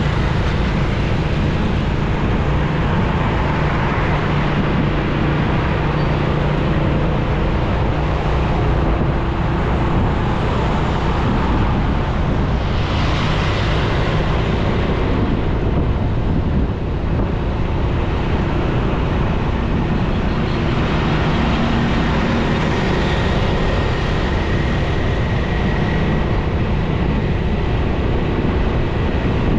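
Motorcycle engine running steadily while riding, with road and wind noise and surrounding traffic. A hiss swells briefly about 13 seconds in.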